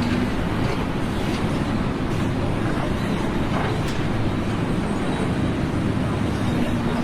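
Steady noise of running vehicles or heavy machinery, even in level throughout with no sharp impacts.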